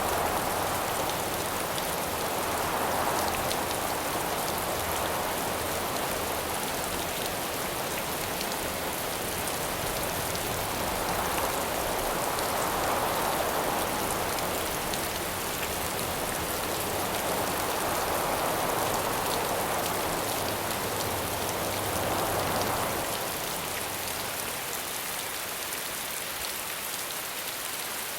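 Steady rain falling, with wind rising and fading about three times underneath it. The rain eases slightly near the end.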